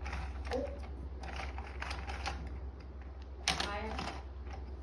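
Irregular plastic clicking and rattling of a toy Hot Wheels car-wash playset being worked by hand, with a brief vocal sound about three and a half seconds in.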